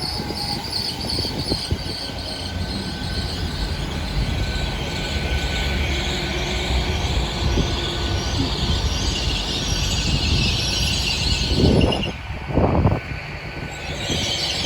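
Great Western Railway Class 800 train arriving and slowing to a stop at the platform, running with a low rumble and a high, steady brake squeal. Two short loud bursts come near the end.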